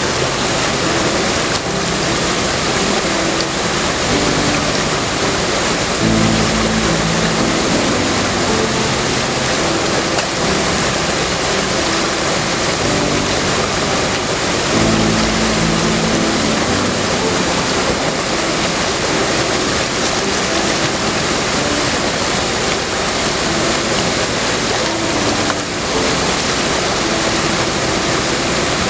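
Steady, loud rushing noise of a moving excursion train heard from aboard: wheels on the rails and wind. A low droning tone rises through it briefly twice.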